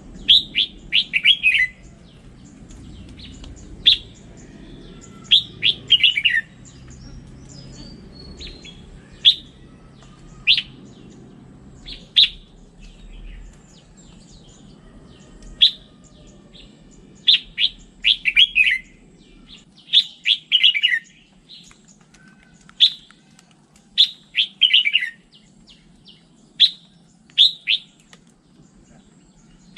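Red-whiskered bulbul singing: short, loud phrases of quick falling whistled notes every second or two, with single sharp notes between them.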